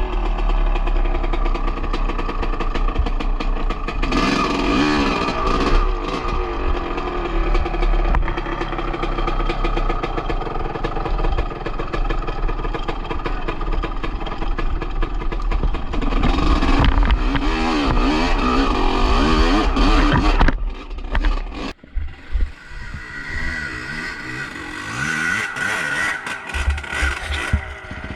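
Motocross bike engine running hard and revving, its pitch rising and falling again and again under load. About three-quarters of the way through, the sound drops and turns uneven.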